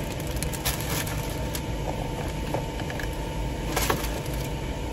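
Car engine idling, heard from inside the cabin as a steady low rumble, with a few brief clicks about a second in and near the end.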